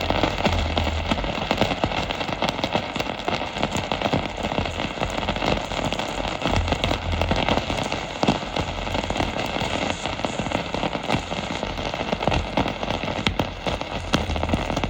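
Wood glue sizzling and crackling under a red-hot iron ball, with a steady hiss and many small pops as the glue boils.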